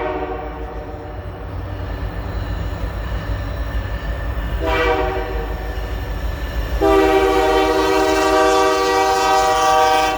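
Freight locomotive horn from the lead unit, an EMD SD70M-2: a short blast about four and a half seconds in, then a long held blast from about seven seconds on, over the steady low rumble of the diesel locomotives. The short-then-long ending is the close of the standard grade-crossing horn pattern.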